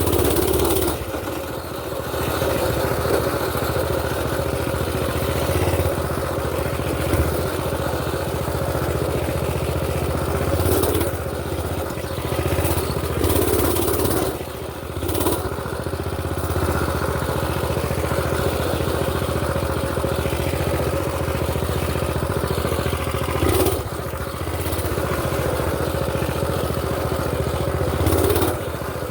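Mini bike's small pull-start engine running steadily while being ridden, its note rising and falling a little with the throttle.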